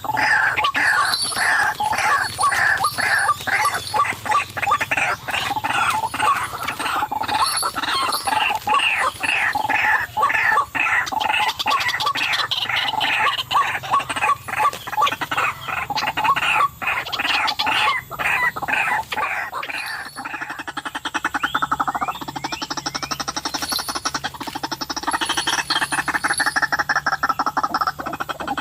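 White-breasted waterhen calls: a loud, rhythmic series of repeated calls, two or three a second, that about two-thirds of the way through changes to a faster, rasping rattle.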